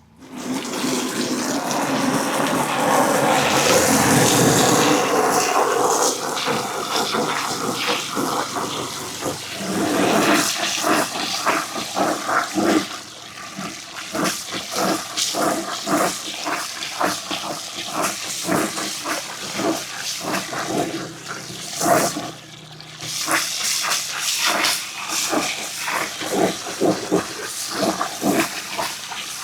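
Many marbles rolling down wooden ramps: a dense rushing rumble for the first several seconds, then a steady stream of clicks and clacks as the marbles knock against the wooden track and each other.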